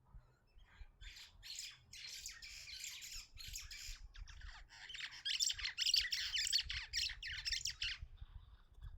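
Harsh scraping and screeching of thin aluminium sheet as a chest freezer's inner liner and evaporator are pried and torn out: a rapid, ragged run of rasping bursts, loudest in the second half.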